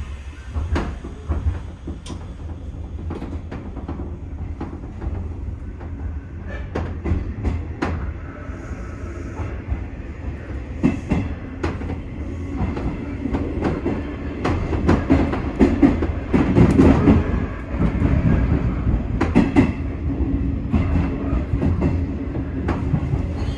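201 series electric train gathering speed, its wheels clicking irregularly over rail joints and points while the running noise grows louder.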